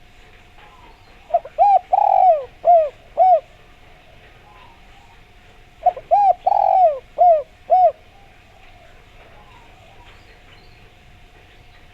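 Derkuku (spotted dove) cooing: two phrases of about five coos each, a few seconds apart, each with a longer, drawn-out second note. A faint steady hum runs underneath.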